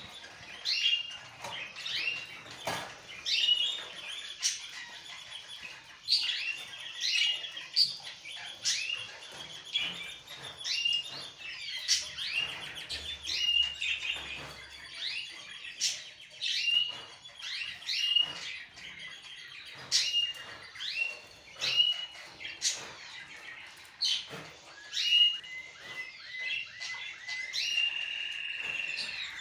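Pet birds chirping over and over in short calls, with sharp clicks mixed in, and a longer held call near the end.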